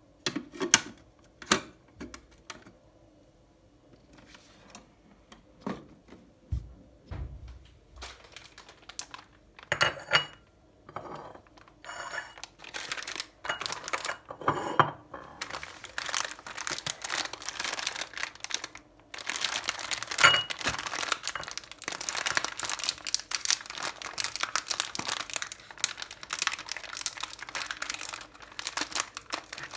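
Scattered clicks and knocks of handling, giving way about twelve seconds in to dense, continuous crackling that grows louder and steadier near the middle.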